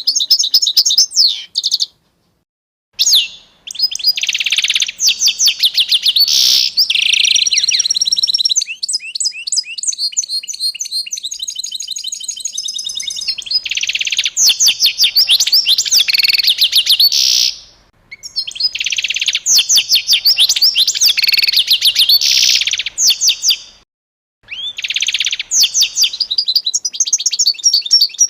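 A songbird singing in phrases of rapid, high chirps and trills, each a few seconds long, with short silent gaps between them.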